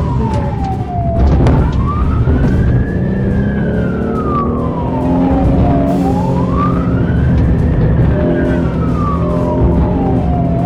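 Emergency vehicle siren in a slow wail, rising and falling about every five seconds, over steady low droning and road noise. A few sharp knocks come in the first second and a half.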